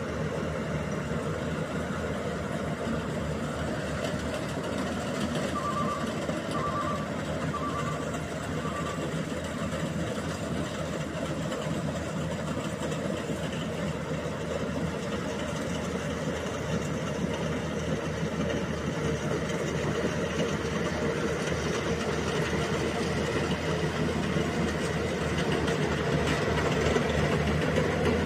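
Rice combine harvester engine running steadily while harvesting paddy, getting a little louder near the end. About six seconds in, a run of five short, evenly spaced beeps sounds over it.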